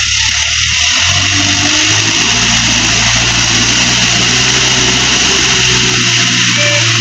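Heavy diesel engine running steadily under a loud, even hiss.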